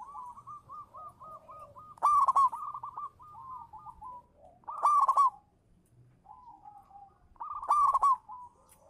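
Zebra dove (perkutut) cooing: three loud phrases, about two and a half seconds apart, with softer quick repeated cooing notes between them.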